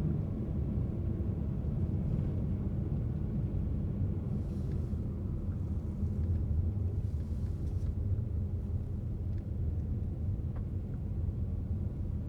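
A car driving along the road: a steady low rumble of engine and tyre noise, with a faint hiss twice in the middle.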